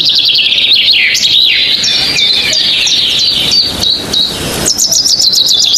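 Birds calling loudly, with fast runs of sharp high chirps and quick downward-sliding notes. A new, denser run of chirps starts a little before the end.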